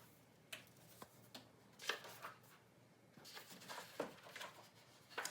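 Faint paper rustles and light clicks of a picture book being handled as its pages are turned, in a short irregular series.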